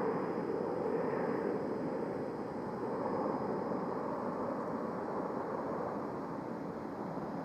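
Jet engines of a departing Boeing 737 airliner: a steady jet noise that slowly fades as the plane climbs away.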